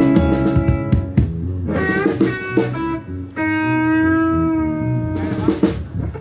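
Electric guitar played through an amplifier during a sound check: a run of picked notes, then one long sustained note held for nearly two seconds.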